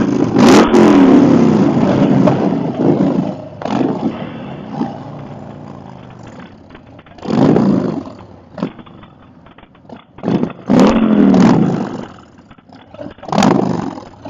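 Motorcycle engines revving and accelerating in about four loud bursts, the engine pitch rising and falling, with quieter running between.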